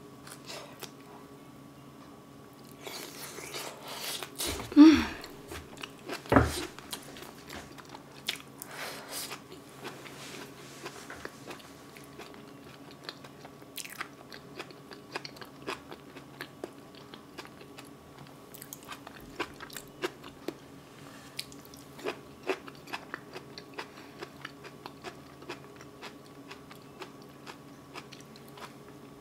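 Close-miked eating: a mouthful of soft boiled potato with braised kimchi being chewed, wet mouth clicks and smacks. The louder mouth noises come between about three and seven seconds in, then a long run of small, quieter chewing clicks.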